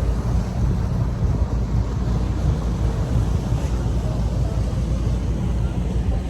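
Steady low rumbling noise aboard a moving river tour boat, the boat's running and the wind on the microphone.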